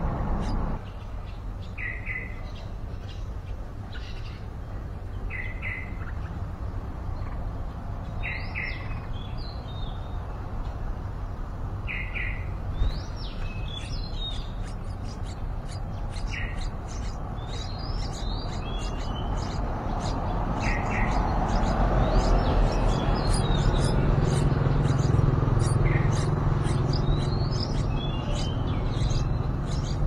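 Songbird calls at a nest: short paired chirps repeat every few seconds. From about halfway, many quick, high, thin chirps join in as the nestlings beg while an adult arrives to feed them. A steady rushing background runs under it all and grows louder with a low hum in the last third.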